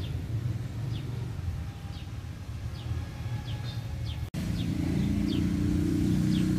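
A bird repeating short falling chirps about once a second over a low outdoor rumble. A little past halfway the sound drops out for an instant, and a louder low drone comes in and holds.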